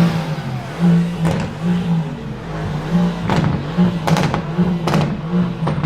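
Mercedes car engine with a loud exhaust running at a steady low pitch with an uneven, pulsing note, and several sharp cracks over it.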